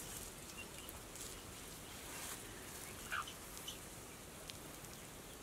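Quiet outdoor background with a few faint, short bird calls, the clearest a brief rising call a little past three seconds in.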